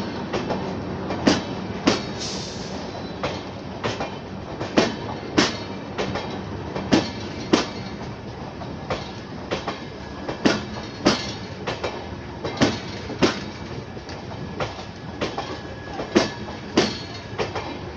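Express train coaches rolling past at steady speed over a low rumble, their wheels clicking over the rail joints in regular pairs.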